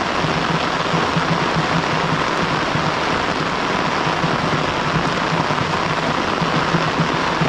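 Heavy rain falling steadily, an even unbroken hiss with no pauses.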